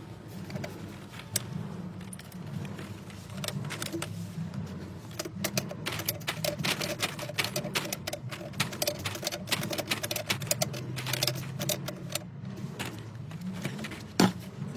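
Rapid metallic clicking and clattering of plumbing tools and fittings being handled, thickest through the middle, with one sharp louder click near the end, over a low steady hum.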